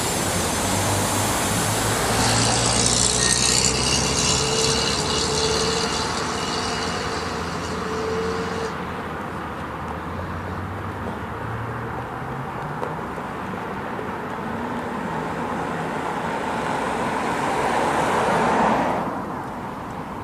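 Street traffic with vehicles passing; one pass-by swells to its loudest about three-quarters of the way through and then fades quickly.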